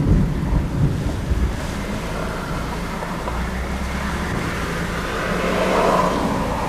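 Steady low rumble of a vehicle with wind noise on the microphone.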